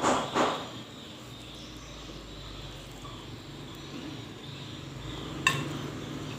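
Low steady background hum, broken once about five and a half seconds in by a single sharp, slightly ringing clink of tableware.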